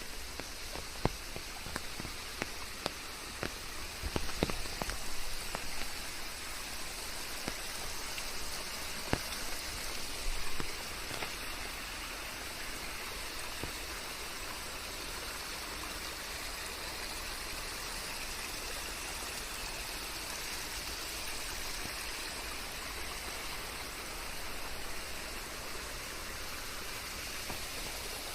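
Steady rain falling, a continuous hiss with scattered louder drips landing close by, most of them in the first half, after which it settles into an even hiss.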